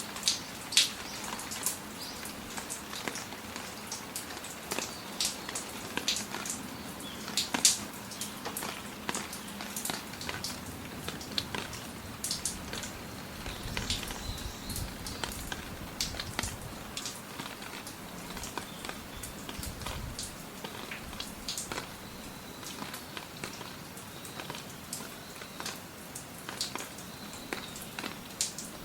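Rain falling steadily, with many individual drops striking close by at irregular moments, the louder ones standing out sharply over a soft hiss. A brief low rumble comes in about halfway through.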